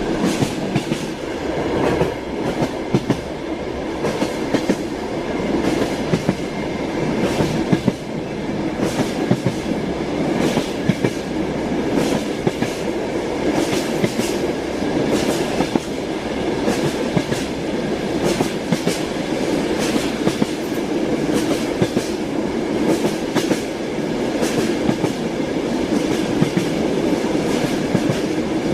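Train wheels clattering on the rails of a moving train: a steady rumble with sharp, uneven knocks several times a second.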